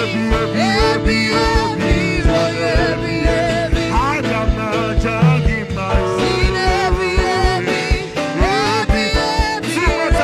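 Live worship band playing an upbeat groove with a steady kick-drum beat under held chords and a bending melody line.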